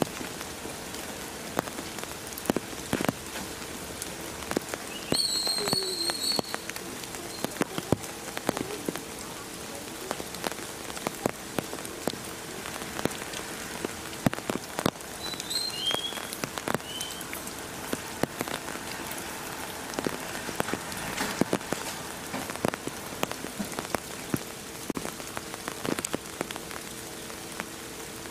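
Steady rain falling, with irregular drops and drips landing close by, over a faint steady hum.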